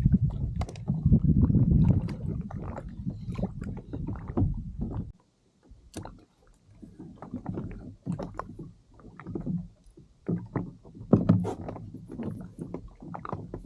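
Knocks, bumps and rumbling handling noise on a kayak. The noise is dense for about five seconds, stops suddenly, then comes back as scattered knocks.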